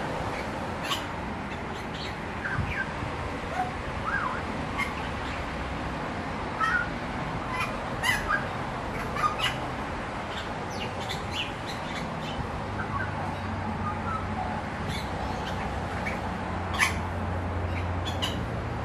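Short bird chirps and calls, scattered and irregular, over steady background noise, with a low hum coming in about two-thirds of the way through.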